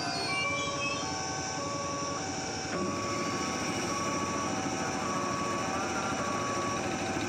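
Steady noise of an electric commuter train standing at the station. Over it runs a simple tune of held notes, a new note about every half second.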